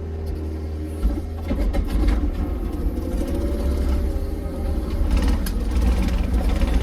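A vehicle engine running steadily with a deep, continuous rumble.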